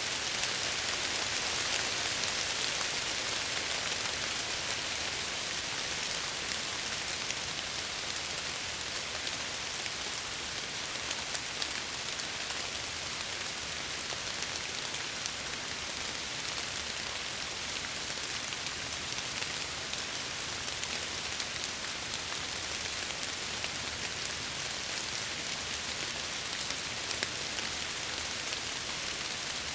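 Steady rain falling and pattering against window glass, an even hiss with scattered drop ticks.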